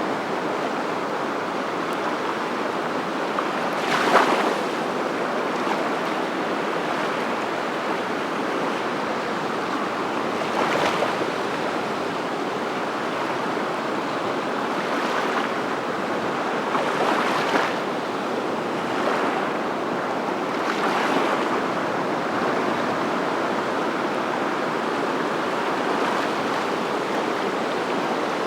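Steady rushing water, with a few brief louder splashes in the first two-thirds.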